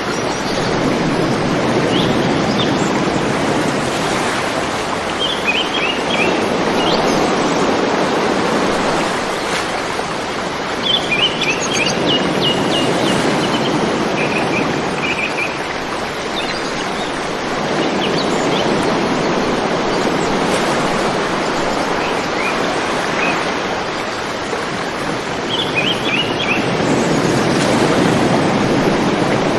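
River water rushing steadily, its sound swelling and easing every few seconds, with small birds chirping in short quick runs of high notes several times.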